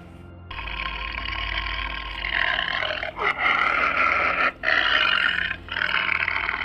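An animal calling harshly in long, noisy stretches, with three short breaks.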